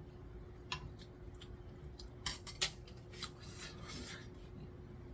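Eating utensils handled at the table: several sharp clicks and short scrapes against dishes, over a faint steady hum.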